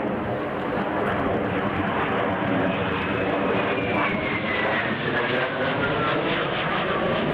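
A fixed-wing aircraft's engine running loudly as it flies past, a dense steady drone with a thin whine that slides down in pitch over about four seconds in the middle.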